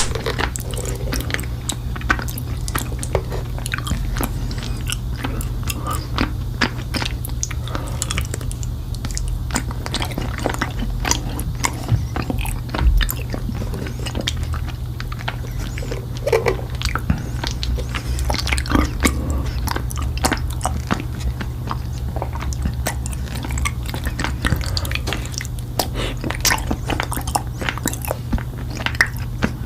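Raw honeycomb being bitten and chewed close to the microphone: a steady run of wet, sticky crackles and clicks as the wax is crushed. A steady low hum runs underneath.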